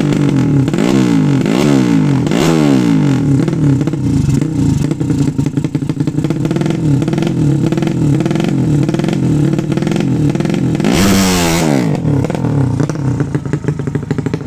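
A 200 cc drag-bike motorcycle engine is revved in quick throttle blips at first, then runs at a fairly steady speed with small throttle wobbles. About eleven seconds in it gives one hard, loud rev that quickly falls back.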